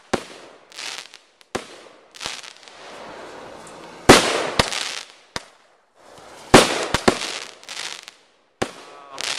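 Consumer fireworks going off one after another: a string of sharp bangs, each trailing off in a hiss. The loudest bangs come about four and six and a half seconds in.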